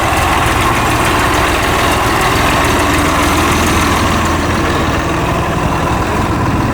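A vehicle engine running steadily with an even low rumble.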